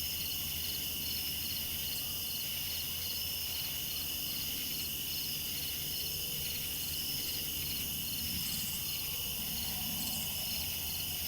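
Crickets chirping steadily, a fast even train of high chirps over a constant insect drone.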